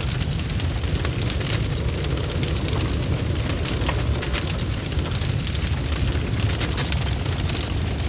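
Campfire crackling, with many sharp irregular pops over a steady low rumble.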